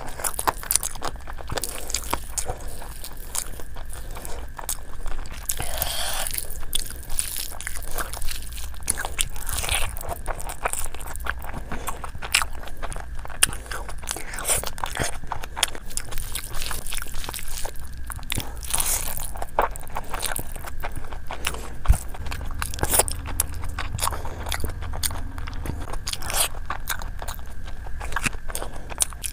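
Close-up eating sounds: a mouth chewing and biting spicy chicken and fried rice, with many irregular wet clicks, smacks and crunches.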